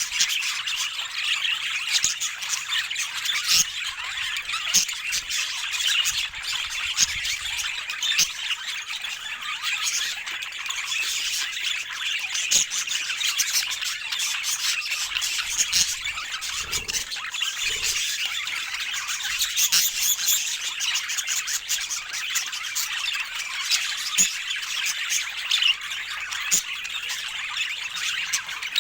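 Budgerigars chattering and squawking continuously, a busy warble with many short clicks mixed in.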